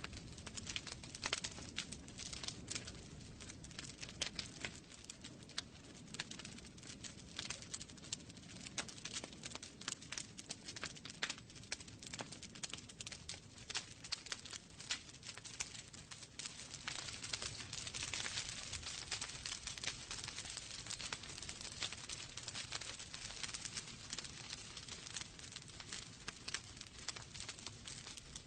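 Wood fire burning in a fireplace: irregular sharp crackles and pops over a low rumble of flame, with a stretch of louder hissing about two-thirds of the way through.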